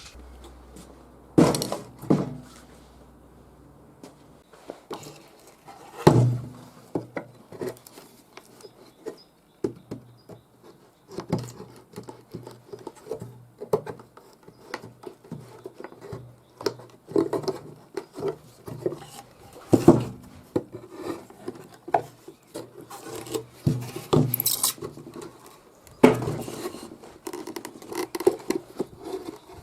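Irregular taps, knocks and rustling from handling a wooden nest box and clearing out its old nesting material, with a few louder sharp knocks of wood among the small scrapes and clicks.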